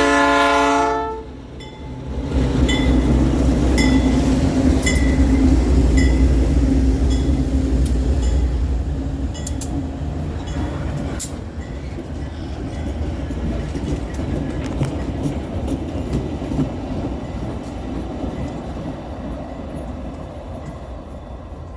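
A GE C36-7 diesel locomotive's horn sounds a chord that cuts off about a second in. Then the locomotive passes with a loud low engine rumble and regular wheel clicks on the rail joints, which slowly fade as the train moves away.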